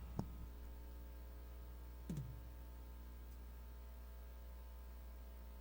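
Low, steady electrical hum with two faint knocks about two seconds apart.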